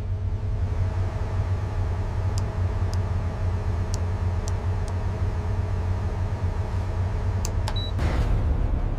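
Steady low machinery hum with a few faint clicks and a short high beep; about eight seconds in, a louder rushing noise sets in over the hum.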